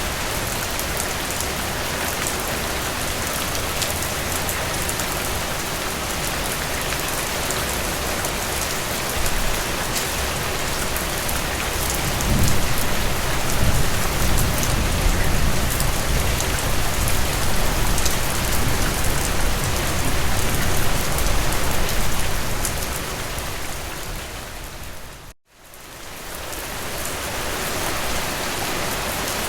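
Steady heavy rain falling through forest trees, a dense even hiss of drops. About twelve seconds in a low rumble swells up beneath it for some ten seconds. Near the end the whole sound fades briefly to silence and fades back in.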